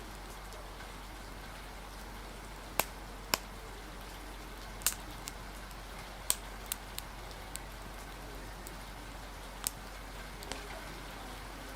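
Rain-and-fire ambience: a steady hiss of rain, with about ten scattered sharp pops and crackles from a crackling fire at irregular intervals.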